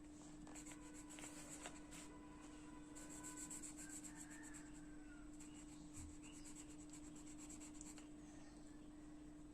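Faint, rapid scratchy strokes of blue colour being shaded onto paper to fill in the water of a drawing, over a steady low hum.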